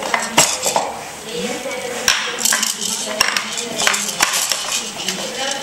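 Clinking and clattering of cutlery and dishes: a string of sharp knocks, several with short high metallic rings.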